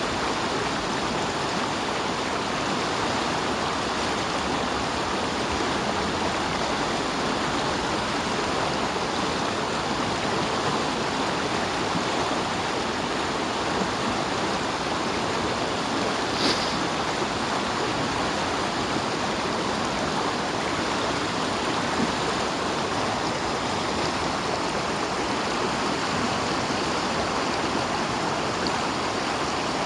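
Steady rush of flowing river water, even and unbroken, with one faint click about halfway through.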